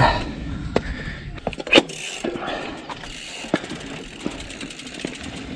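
Rocky Mountain Slayer mountain bike rolling down a rocky dirt trail: tyres crunching and the bike rattling, with sharp knocks from rocks, the loudest a little under two seconds in, and the rear hub ticking as it coasts.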